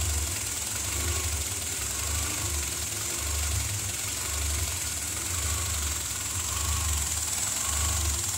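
Renault Clio I's 1.2-litre D7F eight-valve four-cylinder engine idling roughly when warm, its low note swelling and dropping unevenly every second or so. The uneven idle comes from gunk in the throttle body and idle control actuator.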